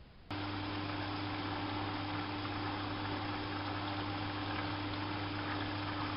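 Hanseatic HWM814A3D washing machine switching on suddenly, then water rushing steadily into it under a constant electric hum.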